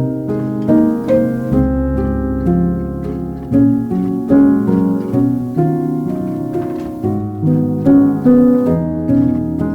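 Background music: gentle plucked harp-like and piano notes in a steady, unhurried rhythm, with a low held bass note.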